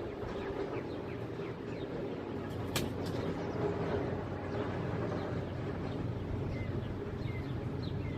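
DR V100 (BR 110) diesel locomotive's engine running with a steady low drone, and a single sharp clank about three seconds in.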